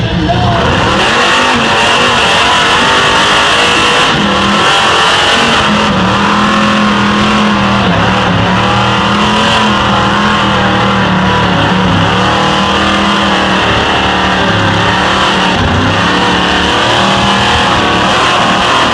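Truck engine running hard at high revs without a break, its pitch wavering slightly up and down.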